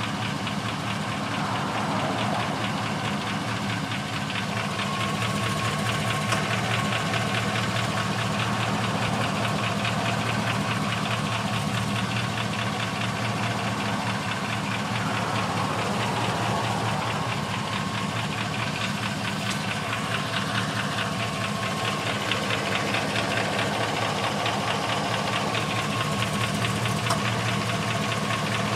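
A 2000 Suburban 2500's 6.0-litre V8 idling steadily with a fast, regular knocking tick. The owner cannot tell whether it is piston slap or a bad lifter.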